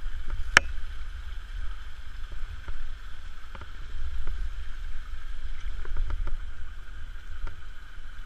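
Small waterfall rushing steadily, with wind buffeting the microphone as a low rumble. A single sharp click about half a second in.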